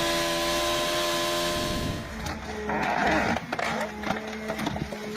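A machine's motor running steadily with a high hiss. About two seconds in the sound changes abruptly to scattered clicks and cracks, with a brief rush of noise and a steady hum.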